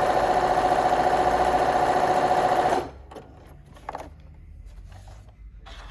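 Bernina B325 sewing machine running fast and steadily while sewing a satin stitch, stopping suddenly about three seconds in; a few faint clicks follow.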